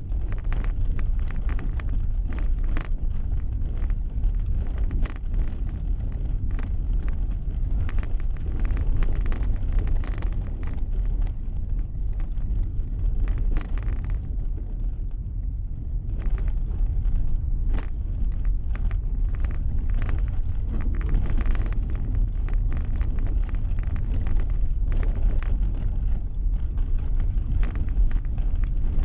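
Steady rumble of a car driving on the road, heard from inside the cabin, with frequent small ticks and knocks over it.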